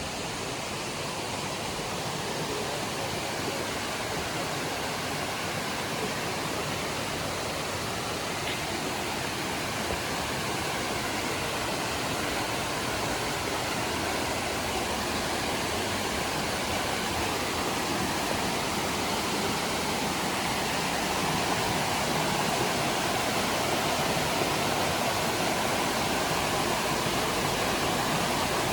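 Steady rush of fast-flowing mountain water, growing somewhat louder over the last third.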